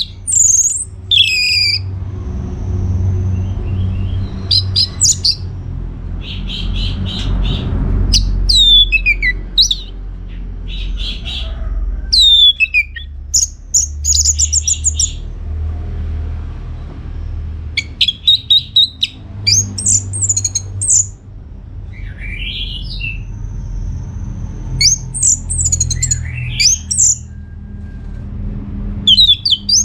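Orange-headed thrush singing: a string of short, varied phrases of quick high notes and steep downward slurs, separated by brief pauses. A steady low rumble runs beneath.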